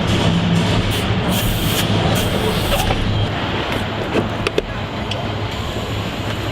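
Car assembly-line factory noise: a steady machinery hum with hisses between about one and three seconds in and a couple of sharp clanks near the middle.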